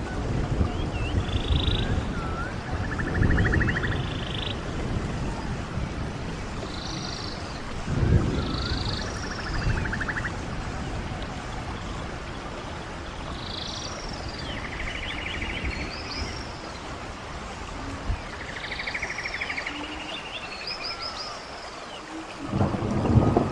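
Running stream water with a songbird singing over it, repeating a short phrase every few seconds: one or two high notes, then a rapid buzzy trill. The water surges louder a few times, most strongly near the end.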